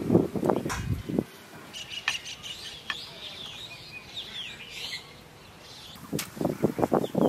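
Small birds chirping in quick calls that rise and fall in pitch, loudest in the middle of the stretch. Near the start there are dull knocks and rubbing, the rolling pin working dough on the stone slab. About six seconds in there is a single sharp click, followed by more low knocks.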